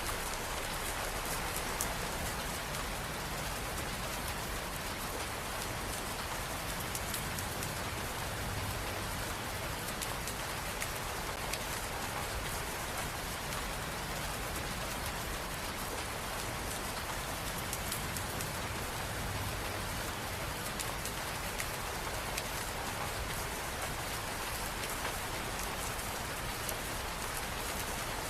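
Steady rain falling, an even hiss dotted with many small ticks of individual drops.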